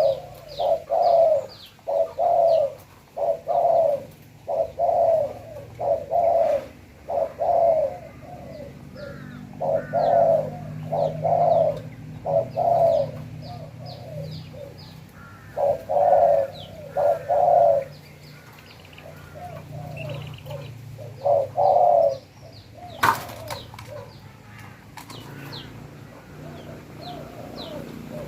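Spotted dove cooing over and over in short phrases of repeated notes, with small birds chirping faintly and high in the background. A single sharp click sounds late on.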